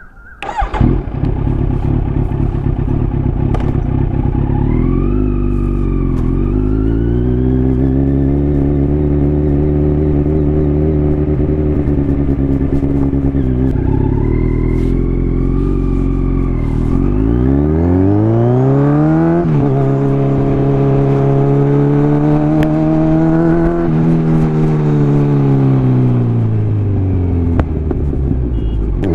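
Kawasaki Z900's inline-four engine through an Akrapovic carbon full-system exhaust, the bike being ridden. The note climbs and falls with the throttle several times, drops abruptly at an upshift about twenty seconds in, falls away as it slows, then climbs again near the end.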